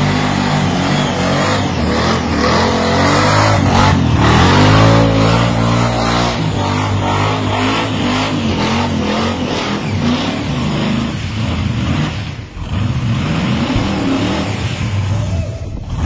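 Supercharged V8 of a 1957 Chevrolet revving hard and falling back over and over during a burnout, its rear tyres spinning on the concrete. The revs drop sharply for a moment about twelve seconds in, then climb again.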